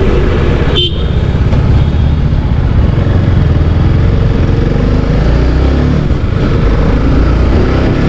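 Motorcycle engine running under way with loud wind rush on the microphone, steady apart from a brief dip about a second in.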